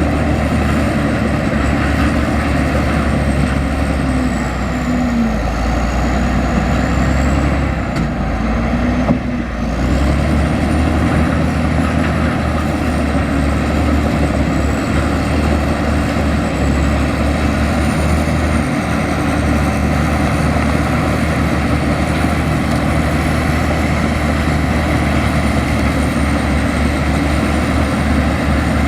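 Heavy diesel earthmoving machinery running steadily under load, with a thin high whine that wavers up and down in pitch throughout and a brief drop in level about nine seconds in.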